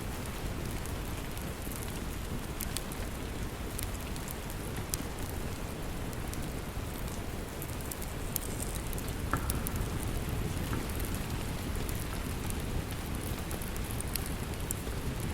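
Steady heavy rain with the scattered sharp pops and crackles of a wood fire burning in a fireplace.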